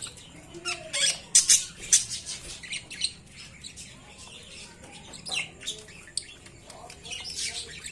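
Budgerigars chattering and squawking: many short, sharp, high calls in quick irregular clusters, loudest about a second and a half in.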